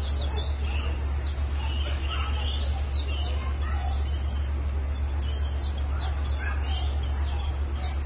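Small birds chirping, many short high calls in quick succession over a steady low hum.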